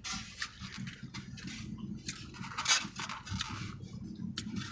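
Close-up eating sounds: a person chewing and handling soft, messy food, heard as irregular small crackles, clicks and rustles.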